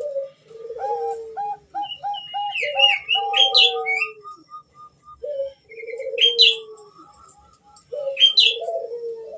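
Female zebra dove (Bangkok perkutut) calling in three bouts. Each bout is a run of short staccato coos and long coos that fall in pitch, with thinner high chirping notes above them.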